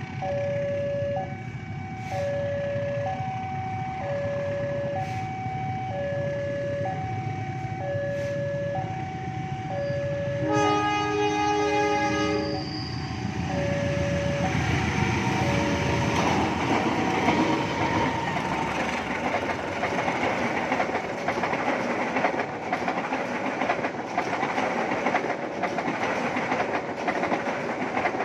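A level-crossing alarm sounds for the first half, alternating between two tones about once a second. About ten seconds in, the KA Commuter Line Garut passenger train sounds its horn for about two seconds. It then passes close by, with a loud rumble and repeated wheel clicks over the rail joints.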